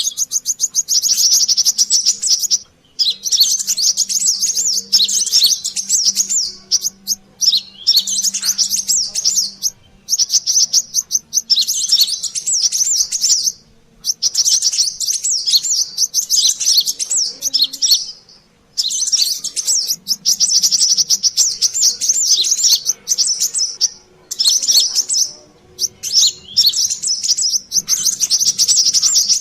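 A sunbird (kolibri kelapa / sogon ontong) in an agitated, noisy chattering song used as a bird-lure call. It runs as fast, high-pitched twittering phrases of one to a few seconds, each followed by a short pause.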